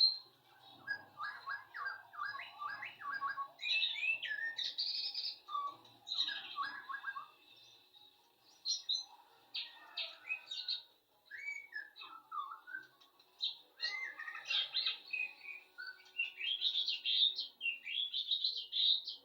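Sooty-headed bulbul (kutilang) calling in bursts of short chirps and quick warbled phrases, with brief pauses between them.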